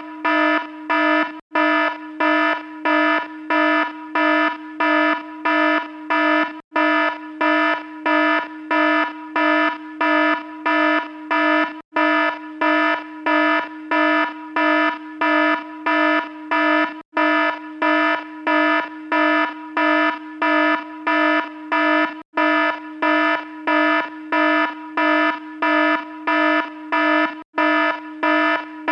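Electronic alarm beeping: a buzzy, harsh tone pulsing evenly about twice a second, with a brief gap about every five seconds.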